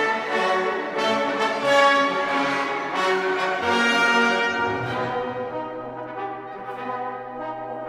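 Orchestral music with brass and horns to the fore over strings, growing softer in the second half.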